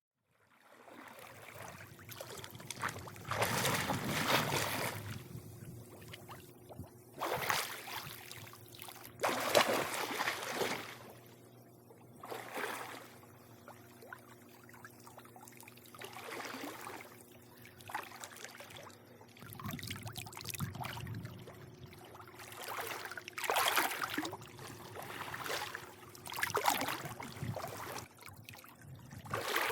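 Pool water lapping and sloshing in irregular surges every few seconds, over a faint steady low hum.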